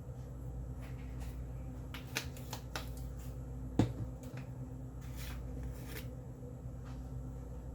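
Black pepper being shaken from a spice container: a quick run of sharp clicks and rattles about two seconds in, one louder knock near the middle, then a couple of softer shakes. A steady low hum runs underneath.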